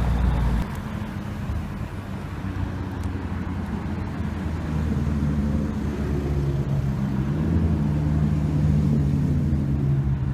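Supercar engine running at low revs, a steady low drone, louder for the first half-second, then rising slightly in pitch about seven seconds in.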